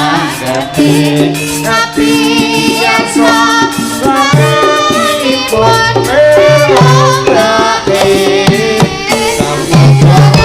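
Live music for a Javanese turonggo horse dance: drums and pitched percussion under a sustained, wavering melody line, played continuously.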